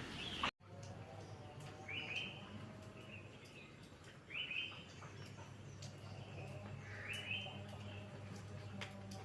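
A bird giving the same short call four times, about every two and a half seconds, over a steady low hum. The sound drops out briefly about half a second in.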